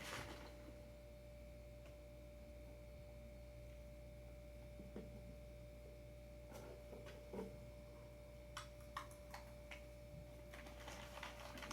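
Near silence: a faint steady tone over a low hum, with a few light clicks of handling from about six and a half seconds in.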